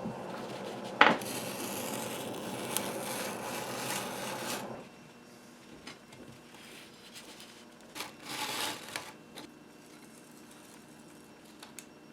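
Handling noises from wooden organ parts on a workbench: a sharp knock about a second in, a short scraping rub around two-thirds of the way through, and a few light clicks. A steady hiss underneath stops about five seconds in.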